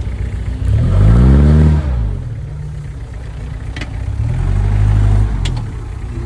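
Off-road 4x4's engine revving hard twice as the vehicle works over rough terrain: a rising rev about a second in, then a second long rev near the end.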